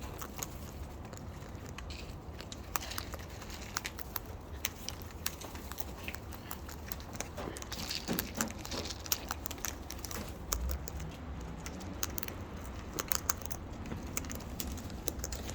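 Birds pecking and chewing at food: scattered small clicks and crackles of beaks working on the treats.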